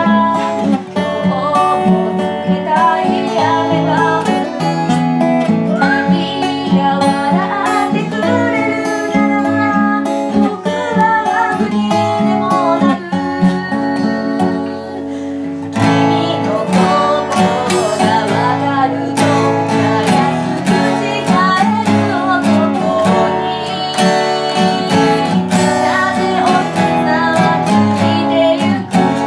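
Live acoustic guitar strumming chords, with a voice singing over it.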